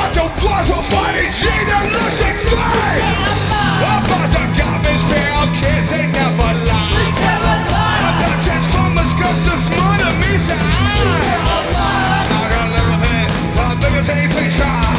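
Live rock band playing loudly, a singer yelling and singing over guitars, bass and drums.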